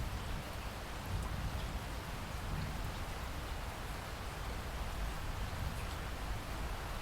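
Steady rain falling in a rainforest, an even wash of rainfall with a deep low rumble underneath and faint scattered drop ticks.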